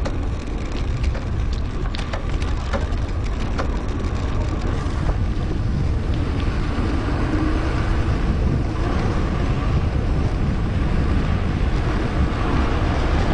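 Wind rushing over an action camera's microphone on a moving mountain bike, mixed with tyre rolling noise. Sharp clicks and crackles come and go in the first few seconds, then the rush runs on steadily.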